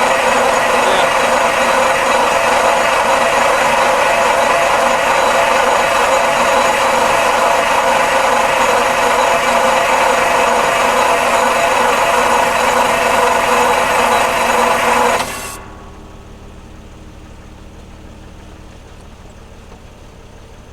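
Detroit Diesel 6V92 two-stroke diesel being cranked to a start on ether: a loud, steady grinding whine for about fifteen seconds that cuts off suddenly. A much quieter, low, steady engine running sound follows once the engine has caught.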